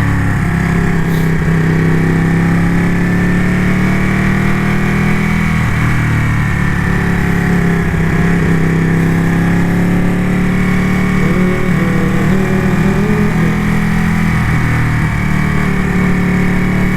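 Ducati motorcycle engine running steadily while riding along in a low gear, its note drifting gently down and up with the throttle.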